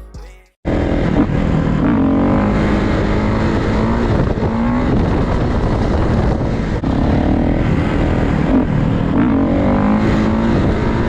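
Music fades out in the first half second, then motorcycle engines, most likely dirt bikes, start in abruptly and run loud, revving up and down several times over a steady noisy background.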